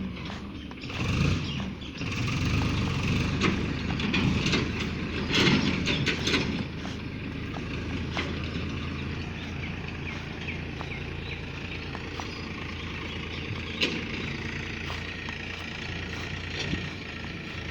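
Tractor engine running steadily with a low hum. It is louder and mixed with rattling and knocks for the first six seconds or so, then settles to a steadier run.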